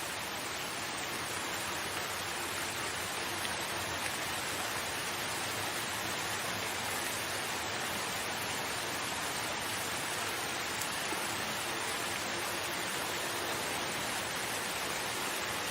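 Steady, even rain with no distinct drops or pauses.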